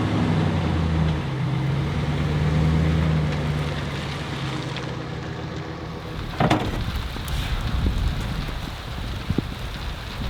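A vehicle engine running just after starting, a steady hum that fades away about four seconds in, leaving a steady rushing noise with a single knock about six seconds in.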